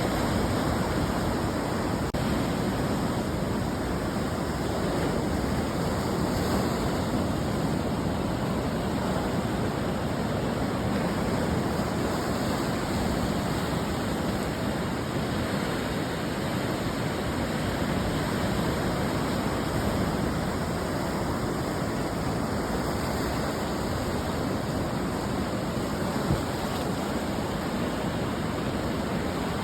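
Ocean surf breaking and washing on a beach: a steady, dense rush of water with only slight rises and falls in level.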